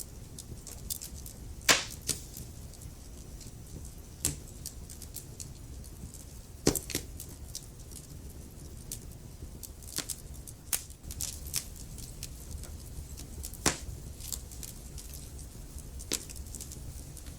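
Wood fire in a fireplace crackling, with irregular sharp snaps and a few louder pops over a low steady rumble.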